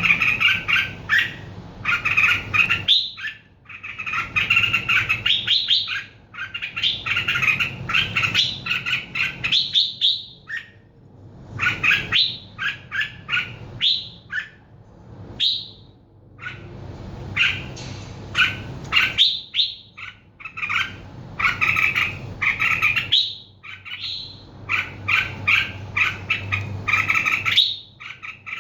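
A bird singing in quick runs of chirps, many of them rising, with short pauses between the phrases.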